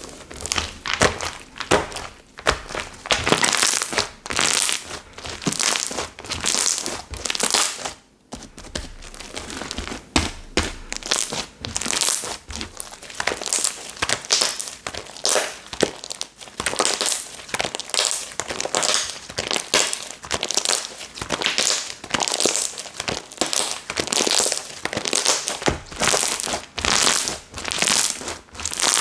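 Slime that has been left sitting out for a day being squeezed, stretched and pressed by hand, making repeated crackly, crinkly squishes and pops, several a second, with a brief pause about eight seconds in.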